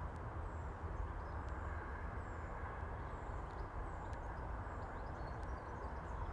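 Steady outdoor background noise with a low rumble, over which a small bird gives faint, thin, high notes that fall in pitch, repeating about once a second, with a few faint ticks.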